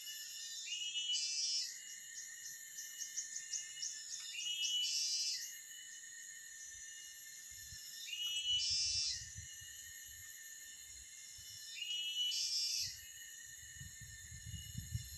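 Forest ambience: a steady high insect chorus, with a bird singing the same short phrase four times, about every four seconds. Between the first two phrases comes a quick run of chirps.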